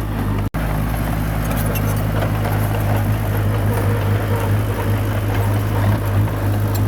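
Small crawler bulldozer's diesel engine running steadily at a constant pitch, with a brief dropout in the sound about half a second in.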